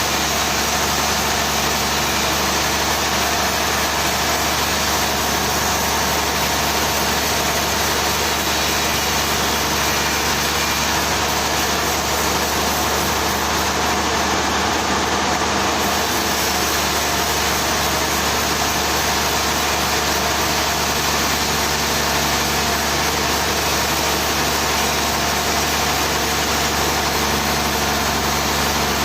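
Machinery engine running steadily at an even pace, with no change in load or speed.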